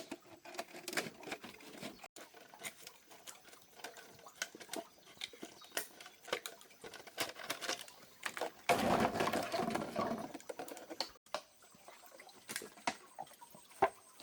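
Irregular small taps and clicks of hands working with objects, with a louder, denser stretch of handling about nine seconds in.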